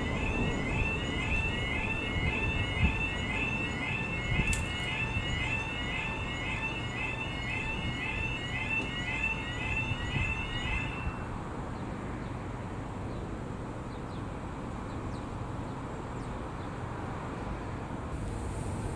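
Level crossing audible warning sounding, a repeating electronic chirping alarm at about two calls a second, then stopping about eleven seconds in. A low rumble runs underneath and continues after the alarm stops.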